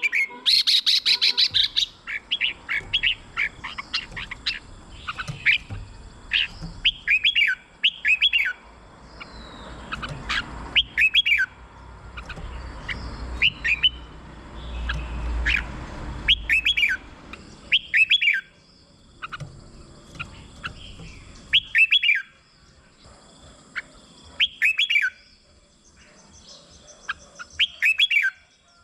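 Red-whiskered bulbul singing: short, bright, warbling phrases repeated every second or two, with a rapid run of high notes about a second in.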